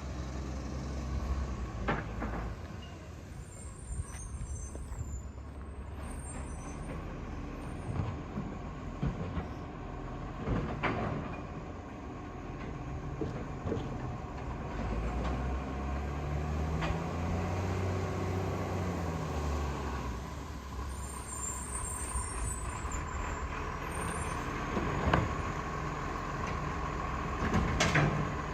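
Garbage truck's diesel engine running steadily, its revs rising and falling again about midway, with several sharp clanks.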